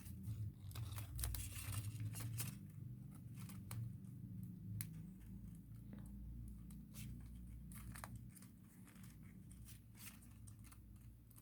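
Thin origami paper being folded and creased by hand: faint rustling and crinkling with short sharp crackles scattered throughout, over a low steady hum.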